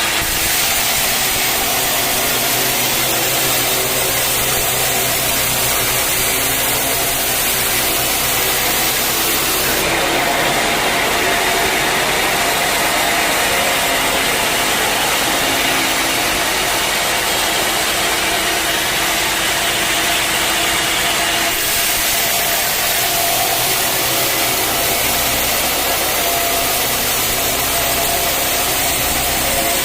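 Sawmill machinery running steadily. About a third of the way in the sound turns harsher and hissier for roughly ten seconds, then settles back to the steadier running sound.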